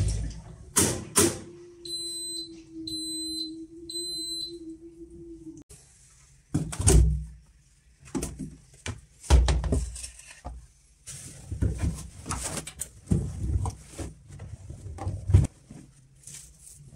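Whirlpool washing machine beeping three times, short high electronic beeps about a second apart, over a low steady hum that cuts off suddenly, typical of a finished Steam Refresh cycle. Irregular knocks and thumps follow, like the door and drum being handled.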